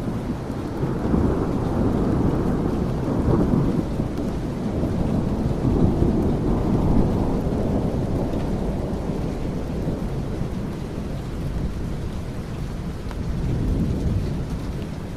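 Steady rain with rolling thunder. The low rumble swells and fades in several waves.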